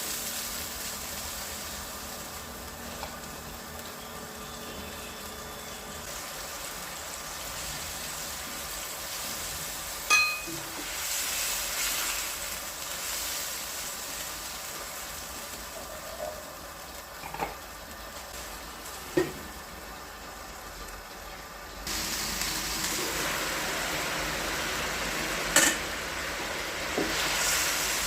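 Chicken sizzling in a pan, with a few sharp clinks of a utensil against the pan. The sizzle grows louder about three quarters of the way through.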